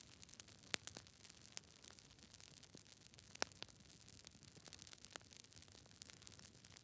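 Wood campfire crackling: irregular sharp pops and snaps over a faint steady hiss, with two louder pops, about one second in and halfway through.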